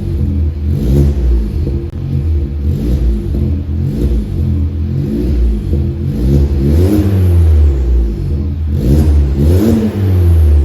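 Seat Leon FR 1.4's four-cylinder engine revved repeatedly through an ICON custom exhaust, in a series of short blips whose pitch rises and falls back, the loudest two near the end.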